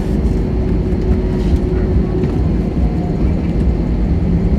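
Steady low rumble of an Airbus A321 airliner's jet engines, with a faint steady hum running through it.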